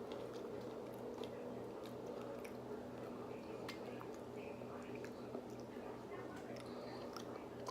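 Close-up chewing of soft food: quiet wet mouth clicks and squishing, over a steady hum.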